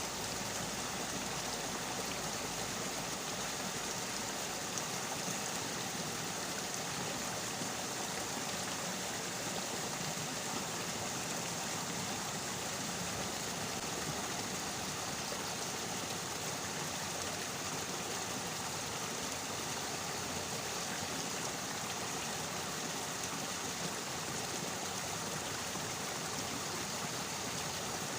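Steady, even hiss of running water.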